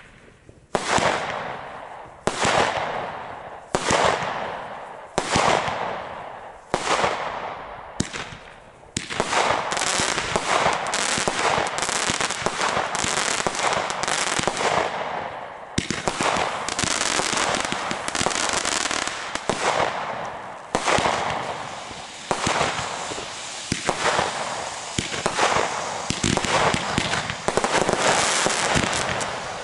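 Fireworks going off: separate bangs, each fading out, about every second and a half for the first eight or nine seconds, then a dense run of rapid bangs and crackling.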